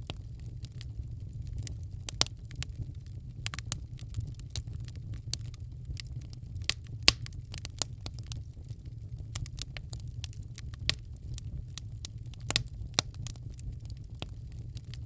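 Wood fire crackling in a fireplace: irregular sharp pops and snaps over a steady low rumble of the burning fire, with one louder pop about seven seconds in.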